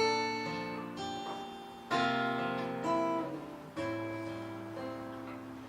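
Acoustic guitar playing a song's opening: five strummed chords about a second apart, each left to ring and fade.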